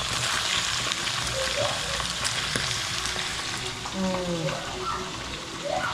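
Food sizzling and crackling as it fries in hot chicken fat, with a steady hiss.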